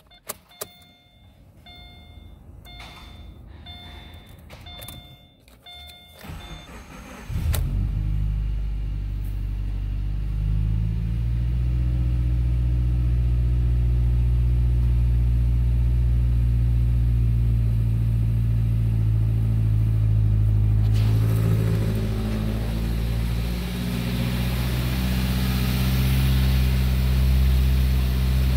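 An electronic chime beeps evenly, about once every three-quarters of a second, then the 2013 Subaru Impreza's 2.0-litre flat-four cranks briefly and catches about seven seconds in. It settles into a steady fast idle. A hiss joins it from about twenty seconds in.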